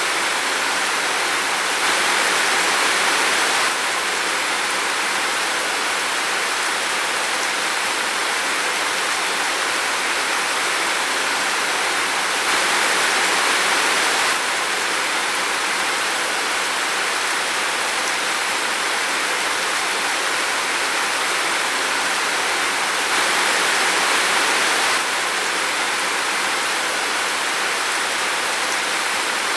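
Steady rain falling in a forest, an even hiss with a slightly louder stretch about every ten seconds.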